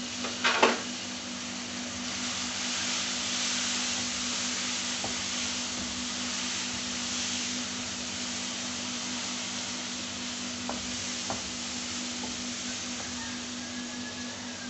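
Onion, ginger-garlic and spice masala sizzling hard in hot oil in a frying pan as water hits it, with a short loud burst about half a second in. A wooden spatula stirs and taps the pan a few times, and the sizzle slowly eases.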